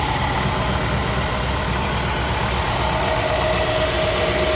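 Ford 302 V8 crate engine with headers and dual exhaust idling steadily, with a thin whine that shifts lower in pitch about three seconds in.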